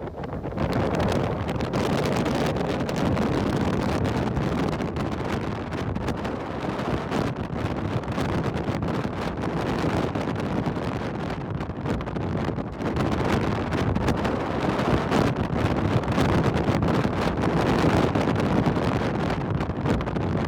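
Strong wind gusting over the microphone: a continuous rushing noise that swells and eases a little with the gusts.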